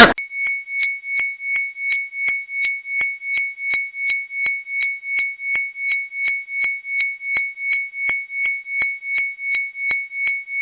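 Rapid electronic beeping: a high-pitched beep repeating evenly at about two and a half beeps a second, alarm-style.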